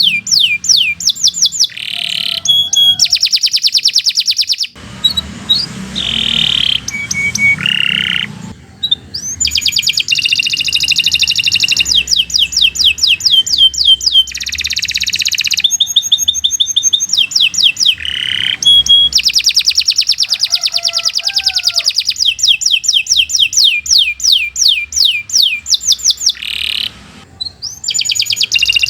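Domestic canary singing a long, fast song made of rolling trills of rapidly repeated high notes. It switches from one trill type to another every second or two, with brief pauses between phrases.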